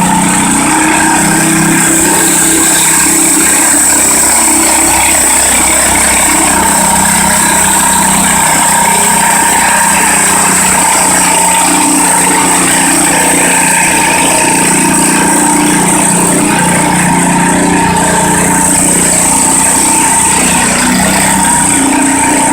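Modified Sears garden tractor's engine running flat out under load while pulling the sled, a steady screaming at high revs with a high-pitched whine.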